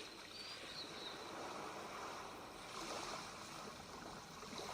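Faint, steady wash of sea sounds, a water ambience bed with no voice over it.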